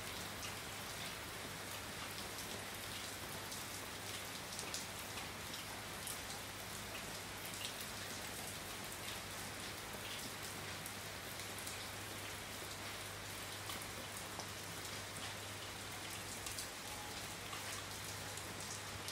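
Steady rain falling on a wet street, an even hiss with scattered close drops ticking, and a low steady hum underneath.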